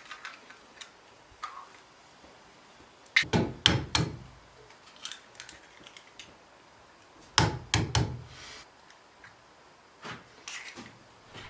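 A few clicks, then two clusters of knocks and thuds, like a door or objects being handled, about four seconds apart.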